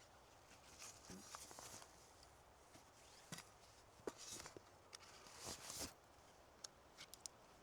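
Faint rustling and light knocks, like steps or handling in forest litter, with a few small sharp clicks near the end.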